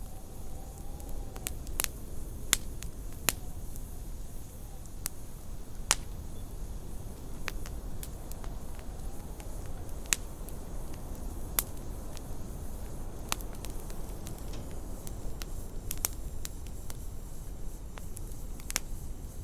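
Wood fire crackling in a fireplace, sharp pops at irregular intervals over a steady low rumble, with a faint wind howl that rises and falls now and then.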